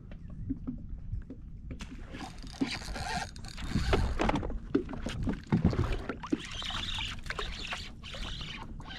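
Water splashing and sloshing with scattered knocks and clatters, starting about two seconds in.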